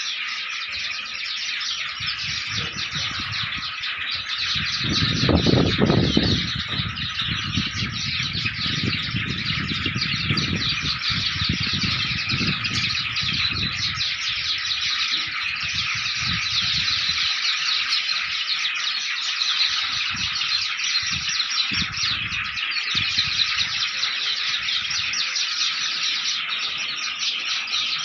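A flock of Java sparrows chirping and chattering continuously, many short high calls overlapping. Low rumbling noise rises under the chirping about five to six seconds in and comes and goes through the middle.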